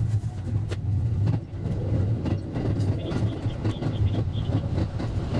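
JR West 223 series electric train running on the rails, heard from the driver's cab and sped up four times: a steady low rumble with quick, frequent clicks from the wheels over the track.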